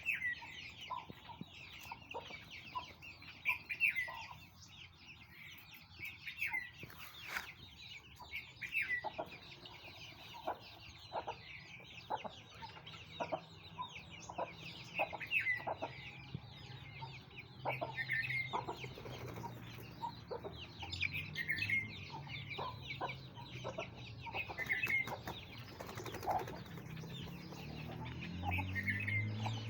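Aseel chicks peeping: repeated short, high chirps throughout, mixed with scattered light clicks and taps.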